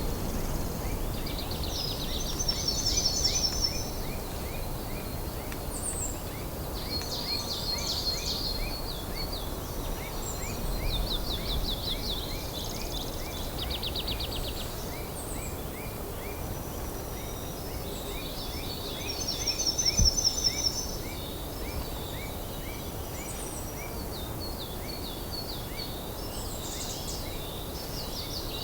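Small songbirds singing repeated high trilling phrases over a steady low rumble, with a continuous run of short, rapidly repeated notes lower down. A low thump sounds about twenty seconds in.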